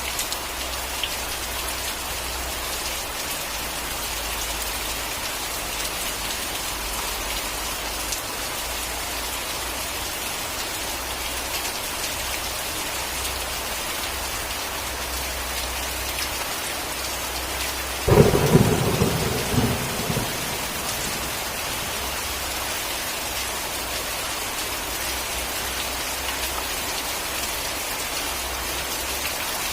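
Steady heavy rain falling, with a single sharp thunderclap about two-thirds of the way in that crackles and rumbles for a couple of seconds before the rain carries on alone.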